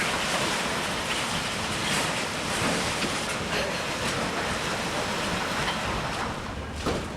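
Steady, dense rumbling noise of a building being demolished by machinery.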